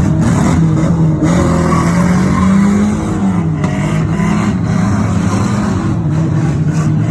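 2-litre banger cars' engines revving up and down in a demolition derby, with tyres skidding on the arena surface.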